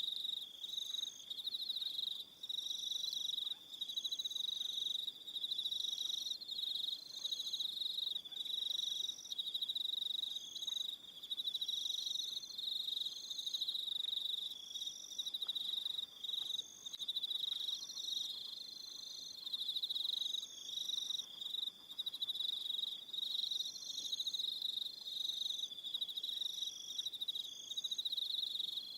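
Evening chorus of crickets: a continuous high-pitched trill with brief breaks, with a second, higher call repeating about once a second over it.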